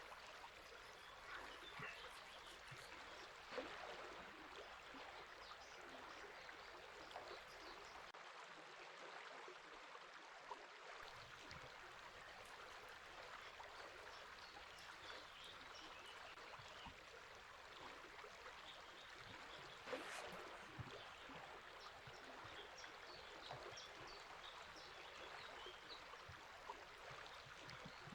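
River water flowing and babbling, a faint steady rush with brief louder gurgles a few seconds in and again about two-thirds of the way through.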